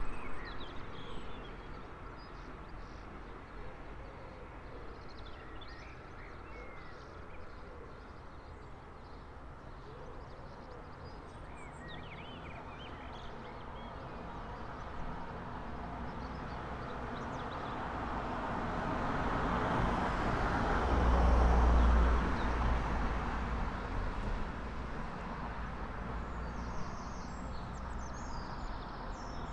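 Early-morning street ambience: small birds chirping over a low, steady background hum. A road vehicle approaches, passes loudest about two-thirds of the way through and fades away.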